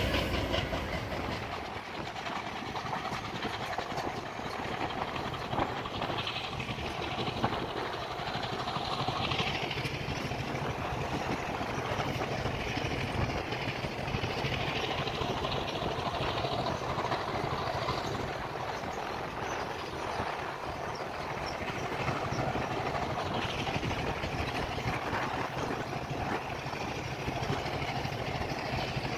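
Express passenger train running along the track, heard from inside a coach: a steady rumble of the coach wheels on the rails.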